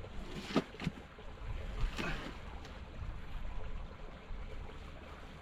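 Steady low rumble of wind on the microphone, with a few short knocks and scrapes in the first two seconds.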